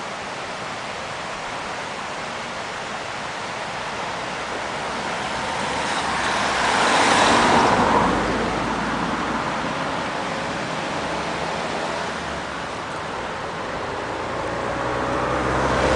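A car passes on the road: tyre and engine noise swells to a peak about seven seconds in and fades away. Another vehicle approaches near the end.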